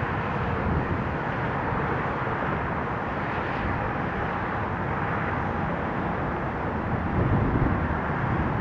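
Steady rushing rumble of jet aircraft engines, even throughout with no distinct events.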